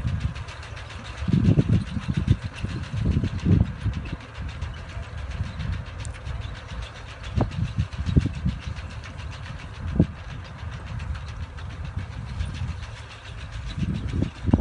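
Tractor engine running steadily while it pulls and drives a four-row potato harvester through the field, with irregular low rumbling swells.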